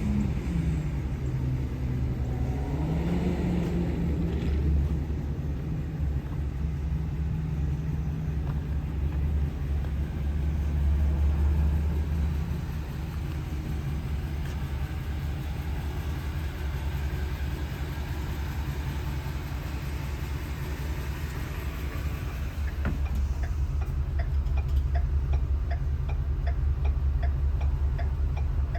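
Ford E350 step van engine idling steadily, its pitch briefly dipping and rising in the first few seconds. About three-quarters of the way in, a regular ticking starts over the idle.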